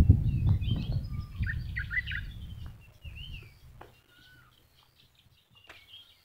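Small birds chirping and singing in short, rising and falling notes. For the first three seconds a loud low rumble on the microphone lies under them, then fades out.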